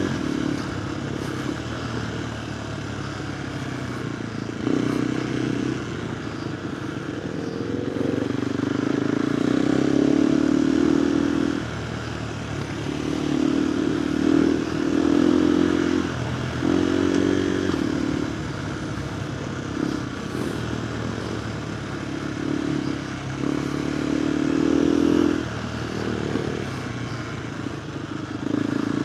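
Single-cylinder KTM 390 Adventure R engine through a Norifumi Whoops slip-on exhaust with the dB killer fitted, on the move: the throttle opens and closes every second or few, the note rising under power and dropping back.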